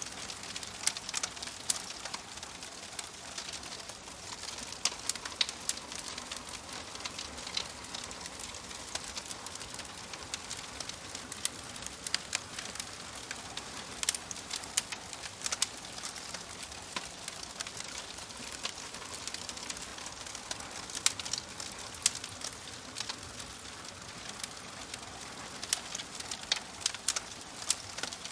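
Wood fire crackling in a fireplace: a steady soft hiss with irregular sharp pops and snaps scattered throughout.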